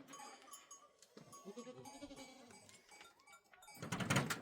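Livestock bleating: a wavering call in the middle, then a louder call near the end.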